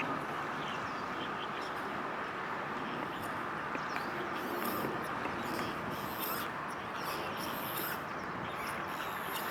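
Steady outdoor background noise, with faint, high, short chirps or ticks scattered through it.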